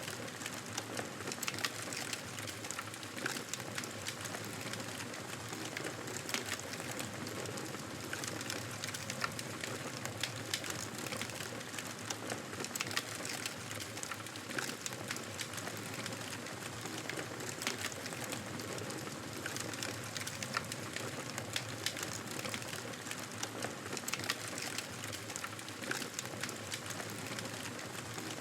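Wood fire crackling in a fireplace: a steady hiss with frequent small, sharp pops and snaps throughout.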